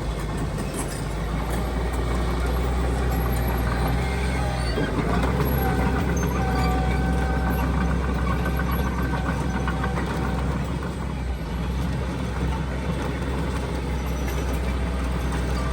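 Heavy diesel construction machinery running steadily under load, with a faint steady whine through the middle.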